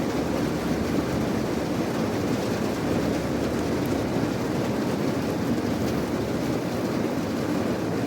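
Steady rain, a dense, even rushing noise that holds at one level without breaks.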